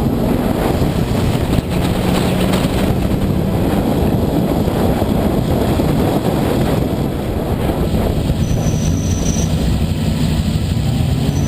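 Ferrari 375 MM's V12 engine running at speed, heard under heavy wind and road noise; its note rises near the end.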